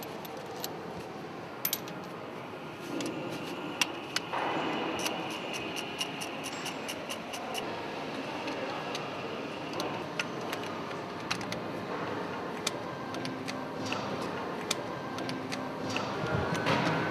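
Hand tools working on bolts: irregular metallic clicks, ticks and clinks of wrenches and loose bolts.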